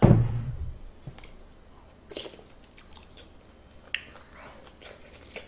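A person chewing food with soft wet mouth clicks and smacks. Right at the start comes a heavy low thump that dies away over about a second.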